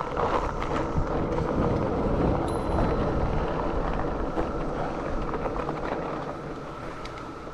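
Mountain bike rolling along a dirt trail, tyre rumble and wind buffeting the GoPro microphone, over a steady, loud cicada drone.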